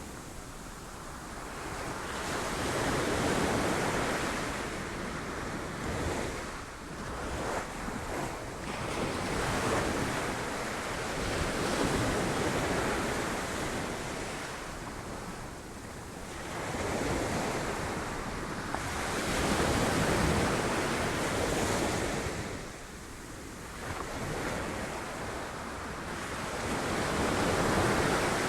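Sea waves breaking on rocks, a continuous wash of surf that swells and ebbs every few seconds, with wind on the microphone.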